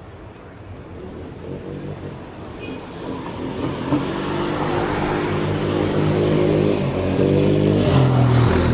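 A passing road vehicle's engine, growing steadily louder as it approaches and loudest near the end, its pitch stepping up and down as it goes.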